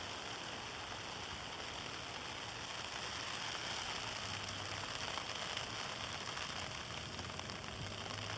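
Steady rain falling on outdoor surfaces, an even hiss.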